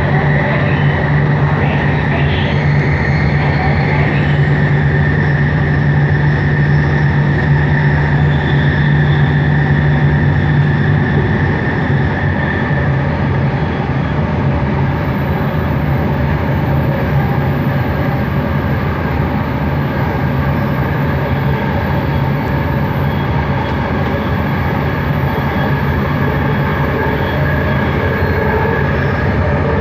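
Bombardier Innovia ART 200 train running, heard from inside the car: steady running noise with a low hum and a higher whine from its linear induction motors. The low hum eases off about twelve seconds in.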